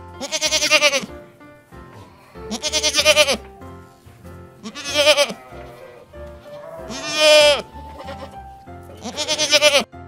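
Goat bleating five times, each call about a second long with a quavering tremble, evenly spaced about two seconds apart. Light background music plays underneath.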